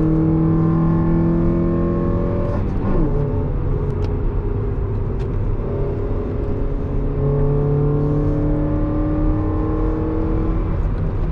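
Mazda NB Roadster's inline-four engine heard from the cabin, pulling hard through the revs on track. Its pitch climbs steadily, falls sharply as the driver comes off the throttle about three seconds in, then climbs again from about seven seconds and drops once more near the end.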